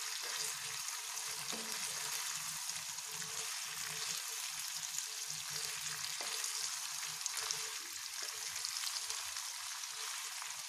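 Stuffed okra sizzling in hot oil in a kadhai, a steady frying hiss, as a wooden spatula stirs it to coat the pods in the oil.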